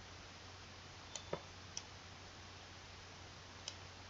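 A few faint computer mouse clicks, about four, scattered over a steady low hiss and hum.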